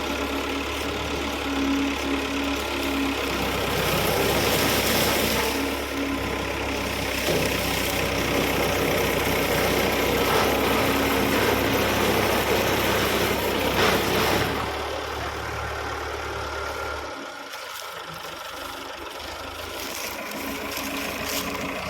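Sugarcane harvester's engine and machinery running. It gets louder and noisier from about four seconds in, eases off about fourteen seconds in, and its deep engine hum drops out about seventeen seconds in.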